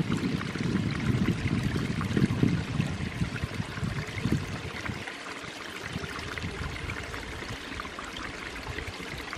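Small rocky creek running and trickling over stones: a steady rushing hiss. An uneven low rumble sits under it for the first half and then drops away.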